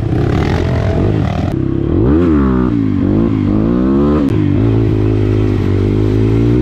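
Dirt bike engine revving under hard throttle. Its pitch rises and drops several times between about two and four seconds in, then holds steadier at high revs.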